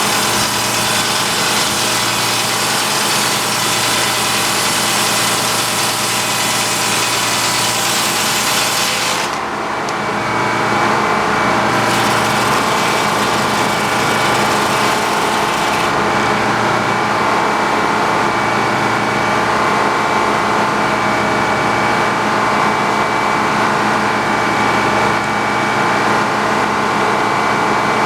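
Engine-driven sawmill cutting through a log, the saw's loud hiss running over the engine until it stops suddenly about nine seconds in as the cut ends. The engine then keeps running steadily.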